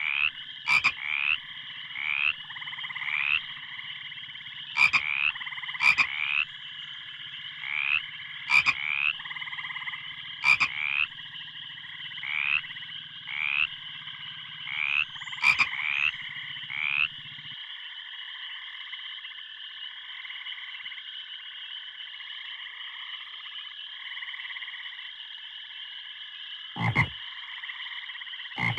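A frog chorus: a steady layered trilling with short rising calls repeating about once a second for the first two-thirds, and sharp clicks now and then. A low hum under it stops about two-thirds of the way through.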